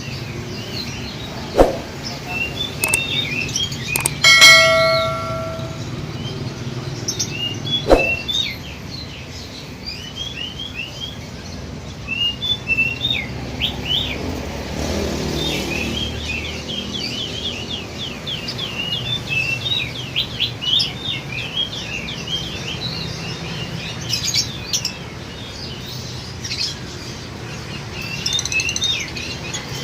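Many caged lovebirds chirping together, a dense run of short high chirps. Two sharp knocks and a brief loud tone break in during the first eight seconds.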